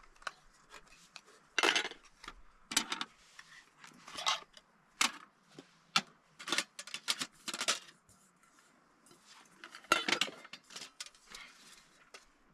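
Trangia 25 camping stove cookset being handled: metal pans, lids and parts knocking, clinking and scraping against each other in short irregular clatters.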